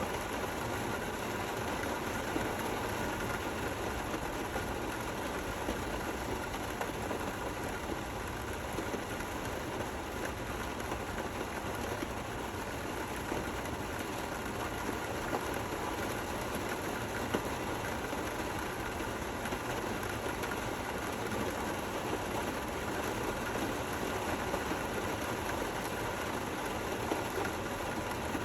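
Steady rain falling, a continuous even hiss without thunder.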